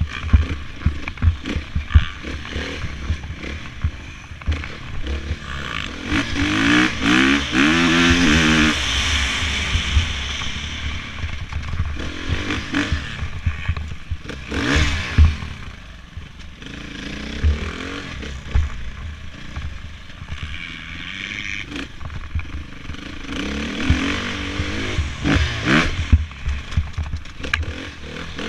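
Dirt bike engines revving, rising and falling in pitch as bikes ride by, loudest about seven to nine seconds in and again near the end.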